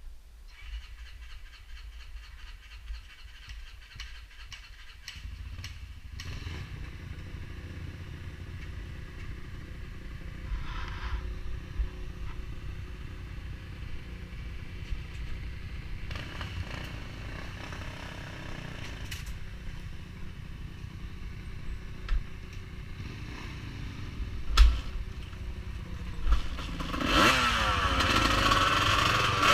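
Off-road vehicle engine running steadily at low revs, with a few sharp knocks, then revving up and getting louder near the end.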